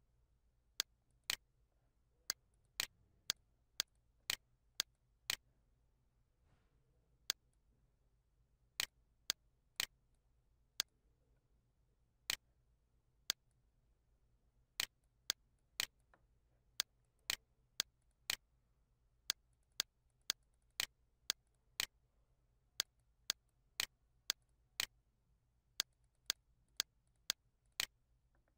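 Computer mouse clicks: sharp single clicks at irregular intervals, often in pairs about half a second apart, over a faint low hum.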